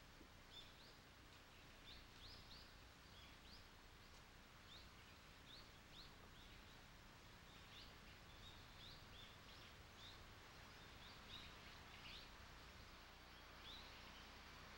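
Faint small birds chirping, short high chirps about one or two a second, over a low steady hiss.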